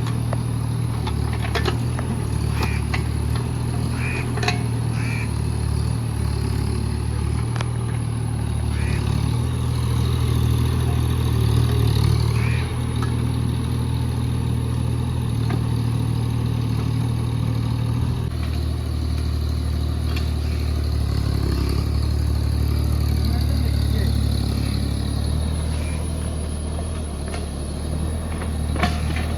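JCB JS30 Plus mini excavator's diesel engine running steadily as it works, easing and picking up a little under load, with a few sharp knocks and clatters.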